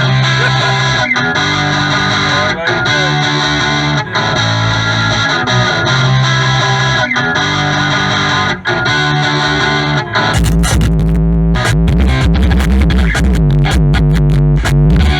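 Music played loud on a car audio system: a distorted electric guitar riff repeating, then about ten seconds in it switches abruptly to a section with heavy deep bass.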